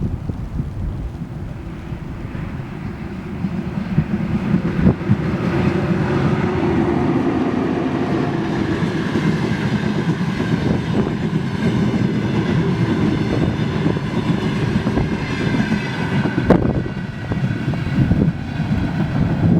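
Passenger train hauled by an EP1M electric locomotive passing at speed, rising over the first few seconds to a steady loud rumble of wheels on rail. Repeated clicks come from the wheels crossing rail joints, with a faint whine above the rumble.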